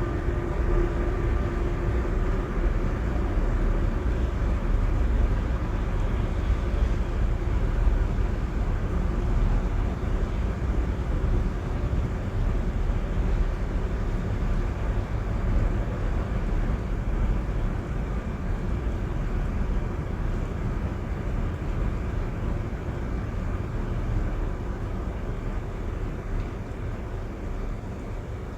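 Steady rain on a car's roof and glass, heard from inside the cabin, with a deep, constant rumble under it. A few faint humming tones fade out in the first few seconds.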